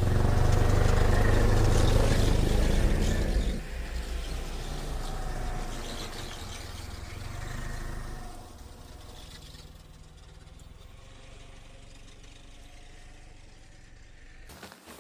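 Snowmobile engine running while packing down a path in snow. It is loud for the first few seconds, drops sharply, rises briefly about eight seconds in, then fades and stops suddenly near the end.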